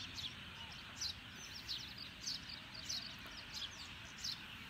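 Birds chirping: short, high chirps, each sliding down in pitch, repeated about two or three times a second over a steady high hiss of background bird and insect chorus.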